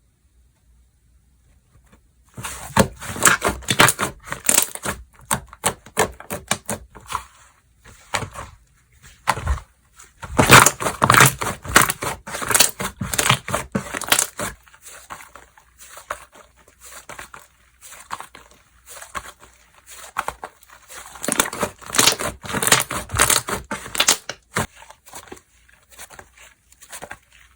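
Slime being squeezed, pressed and stretched by hand, making dense crackling and popping clicks in bursts. It starts about two seconds in and is busiest in two stretches, midway and near the end.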